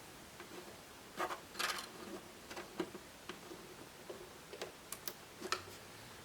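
Small plastic clicks and short scrapes of laptop case parts being handled during disassembly, coming irregularly about eight times.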